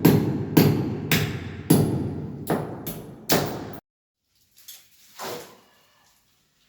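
Repeated heavy hammer blows, roughly two a second and a little uneven, each ringing on briefly in a hard-walled room. They cut off suddenly about four seconds in, leaving only a couple of faint thuds.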